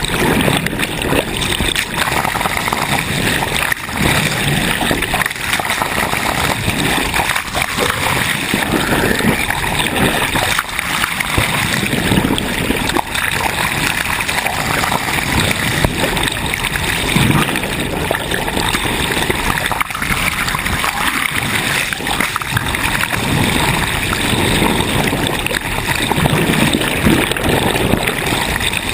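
Sea water rushing and splashing along a sailboat's hull as it moves under way, a loud continuous wash that swells and eases.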